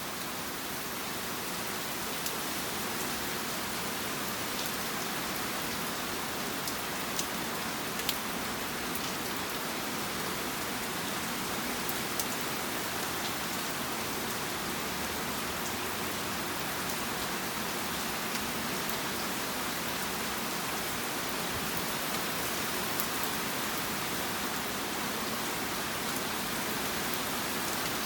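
Moderate to heavy rain falling steadily on hard surfaces, with scattered louder drips and splashes.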